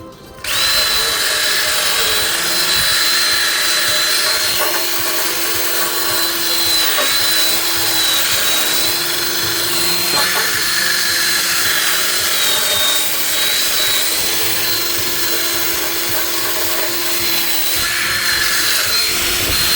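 Electric drill (screw gun) spinning a wire brush bit against a chrome exhaust tip, scrubbing the carbon off. A steady motor whine over a harsh scratching, starting about half a second in.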